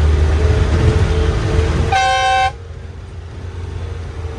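Bus engine and road rumble, with a short honk of a vehicle horn about two seconds in. After the honk the sound drops suddenly to a quieter rumble.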